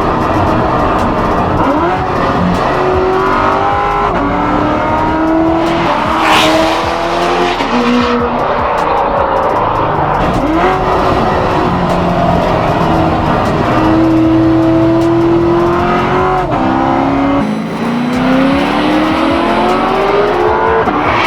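Modified 840-horsepower C7 Corvette V8 accelerating hard, its engine note climbing through each gear and dropping sharply at every upshift, several times over.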